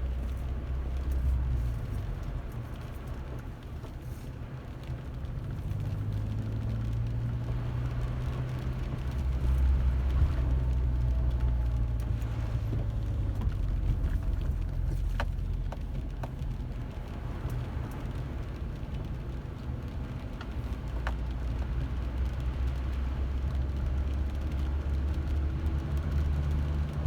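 Car driving: a steady low engine and road rumble that swells and eases with speed, with a few faint ticks.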